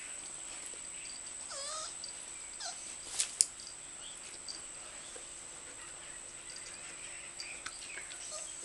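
A puppy whimpering, with a short wavering cry about two seconds in and a fainter one just after. Two sharp clicks come about three seconds in, over a steady high-pitched hum.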